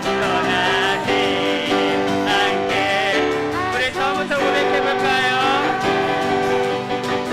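Praise team voices singing a worship song over piano accompaniment, with sustained chords and vibrato in the singing.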